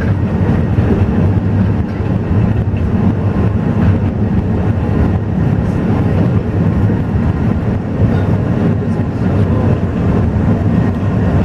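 Alishan Forest Railway train running, heard from aboard: a steady, loud low rumble of the train under way with no pauses or changes.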